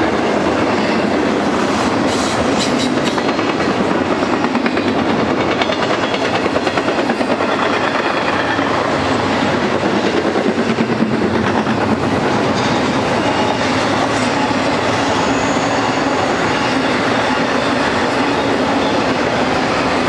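Double-stack intermodal freight train's well cars rolling past, a steady loud rumble with the rhythmic clicking of wheels on the rails.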